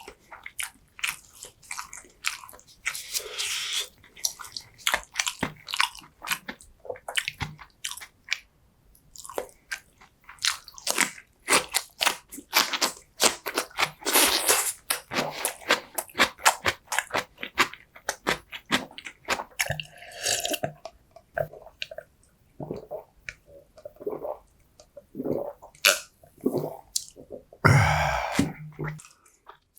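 Close-miked chewing and biting of food: a dense, irregular run of wet mouth clicks and smacks, thickest in the middle, with a longer noisy bite near the end.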